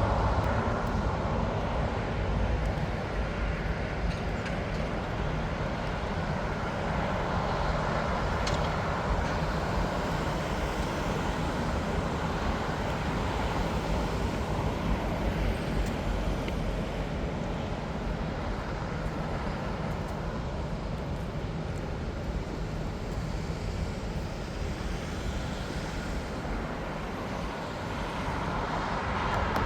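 Steady rumble of jet airliner engines around the airport, easing off slightly a few seconds before the end and swelling again at the very end.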